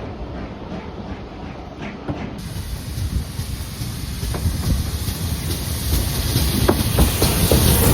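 Steam train running on the line, its low rumble growing louder as it approaches, with a hiss of steam coming in suddenly about two seconds in.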